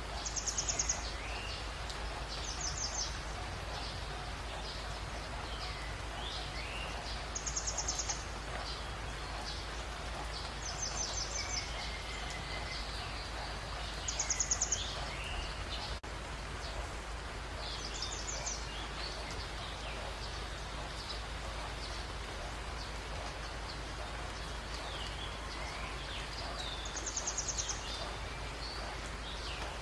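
Birds calling: about seven short, very high rapid trills a few seconds apart, mixed with scattered lower whistled chirps, over a steady background hiss.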